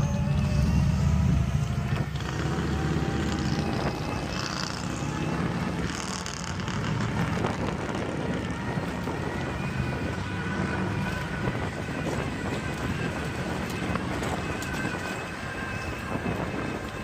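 Wind buffeting the microphone and steady rolling noise while riding an electric bike, with a faint thin whine drifting slightly in pitch.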